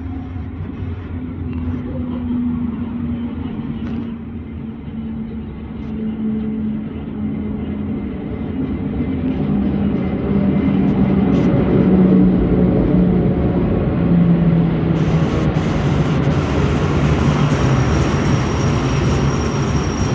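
Rhaetian Railway Ge 4/4 III electric locomotive running past on the station track, its motor hum falling slowly in pitch and growing louder as it comes by. The freight wagons then rumble past, and a high, steady squeal from the wheels joins near the end.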